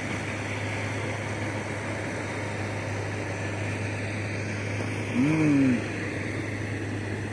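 Heavy machinery engine running with a steady low hum. About five seconds in comes one short call that rises and then falls in pitch.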